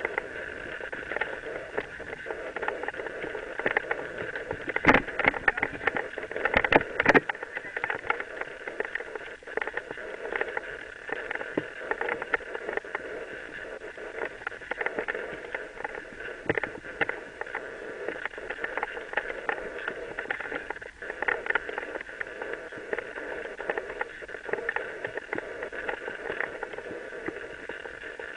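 Mountain bike riding along a dirt trail: steady tyre noise and rattling from the bike over the rough ground, with a few harder knocks from bumps about five and seven seconds in.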